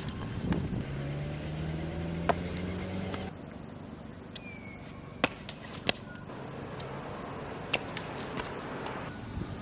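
A passing road vehicle's engine hums for the first three seconds, its pitch rising slightly. The sound drops abruptly to quieter outdoor background with a few sharp isolated clicks.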